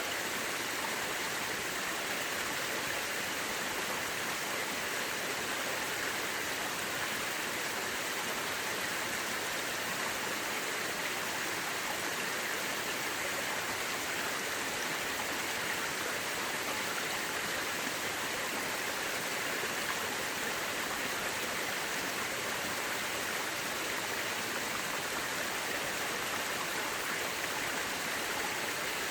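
Mountain river rushing steadily over rocks, an even hiss of flowing water that doesn't change.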